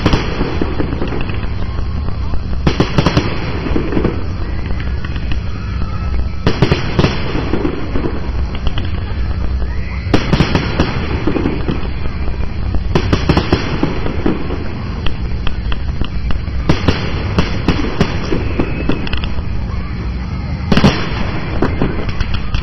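Fireworks display: rockets and shells bursting in volleys every few seconds, sharp cracks and crackling over a constant low rumble.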